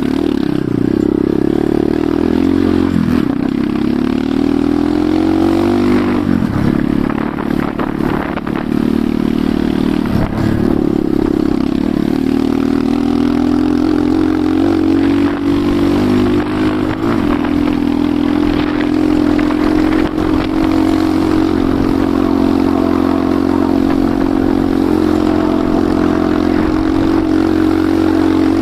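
Enduro motorcycle engine running under way. Its pitch rises and falls with the throttle for about the first twelve seconds, then holds fairly steady.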